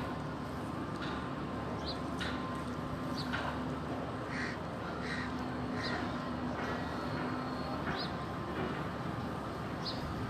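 Birds calling outside, short sharp calls repeating about once or twice a second, over a steady low hum.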